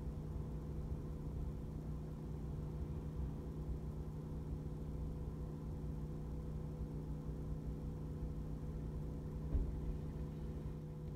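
A vehicle engine idling with a steady low hum, and a brief knock near the end.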